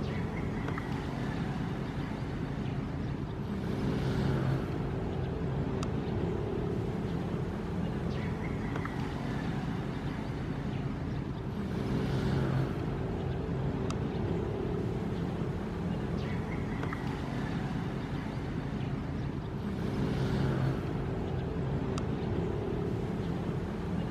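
Ocean waves washing in, a swell about every eight seconds over a steady low rumble.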